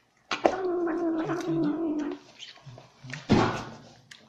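A domestic cat giving a long, low, growling yowl that holds a steady pitch for nearly two seconds, then a shorter low call. About three seconds in comes a short, loud burst of noise that fades away.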